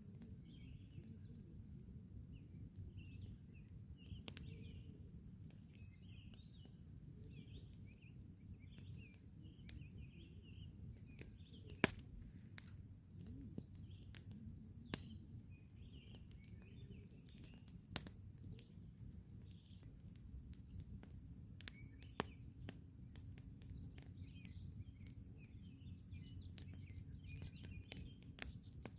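Campfire crackling with scattered sharp pops, the loudest about twelve seconds in, over a low steady rumble, while small birds chirp in the background throughout.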